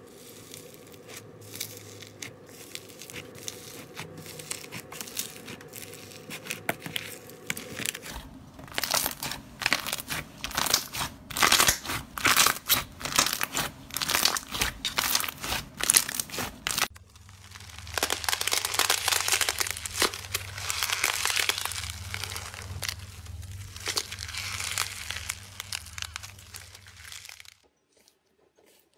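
Crunchy slime being squeezed and pressed by hand, giving dense crackling crunches. The crunching grows louder about a third of the way in, changes character partway through, and stops shortly before the end.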